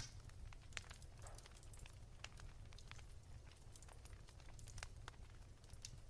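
Wood fire crackling softly: irregular small snaps and pops, with one sharper pop right at the start, over a steady low rumble.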